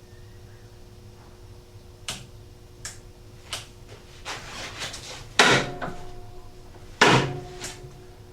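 A few short sharp clicks, then two louder knocks with a brief ring after each, over a faint steady hum: hands handling parts and controls.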